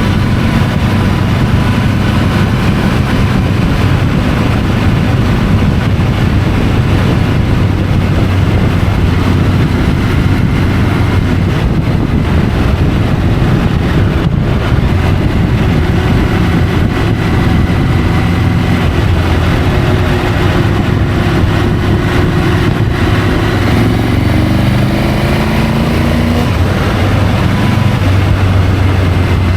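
Triumph Tiger 850 Sport's three-cylinder engine running under way, with steady wind and road noise. About 24 seconds in the engine note rises several times in quick succession.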